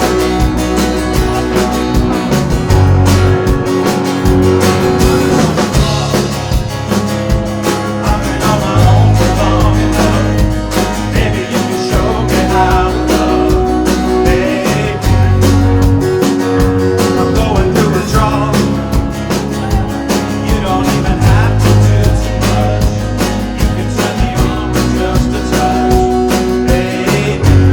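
Live rock band playing a song: drums keeping a steady beat under bass, guitars and a singing voice.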